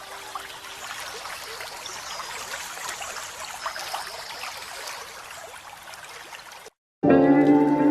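Water trickling and running, as in a small stream, an even hiss with small ticks, while a held music chord fades out in the first second. Near the end the sound cuts out for a moment and loud, sustained music notes come in.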